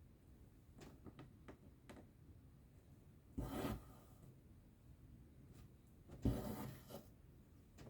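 Cross-stitch thread pulled through fabric twice, each pull a short rasping swish, with a few faint ticks between the pulls.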